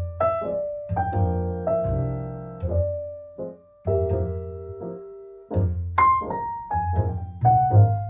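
Background music: a piano plays a melody over chords and a steady bass.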